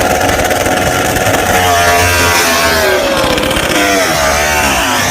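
Racing motorcycle engine revving, its pitch rising and falling, the rise and fall quickening near the end.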